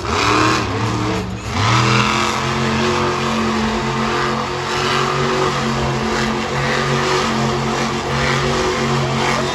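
Monster truck engine revving, rising in pitch over the first two seconds, then held at steady high revs with small surges.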